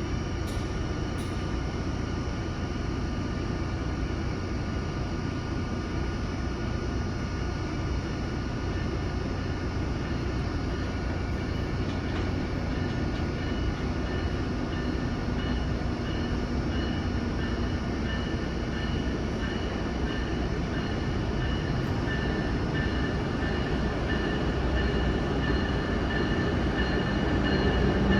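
Amtrak Acela electric trainset arriving at a station platform: a steady rumble with several steady high-pitched tones over it, growing louder near the end.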